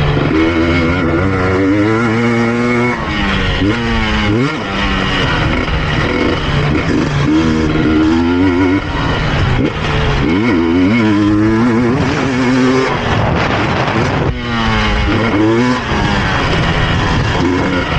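KTM EXC 250 TPI two-stroke single-cylinder engine being ridden hard. It revs up and drops back again and again as the bike accelerates and backs off.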